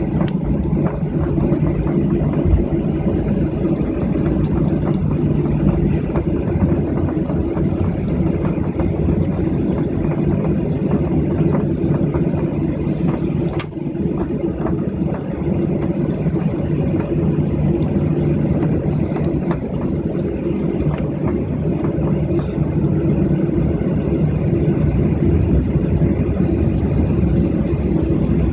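Steady hum of an airliner's cabin with the jet engines running at low power during taxi before takeoff, with one short click about halfway through.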